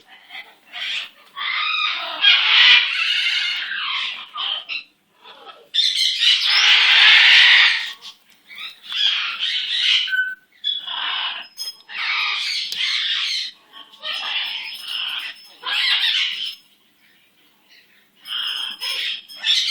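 Pet parrot squawking in a series of bursts of a second or two each, the longest and loudest about six seconds in.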